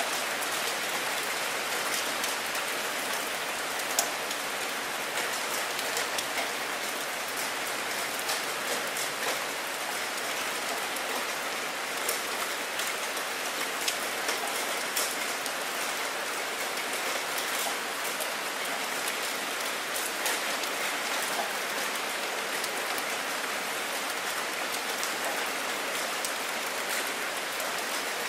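Steady heavy rain falling onto water: a dense, even hiss with frequent sharp ticks of single drops landing close by.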